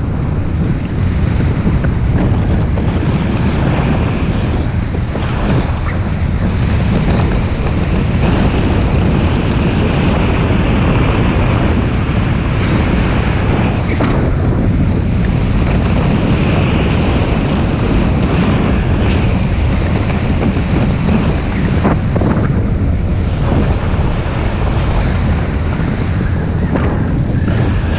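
Wind rushing steadily over the microphone of a camera riding on a moving motorbike, mixed with the bike's running noise.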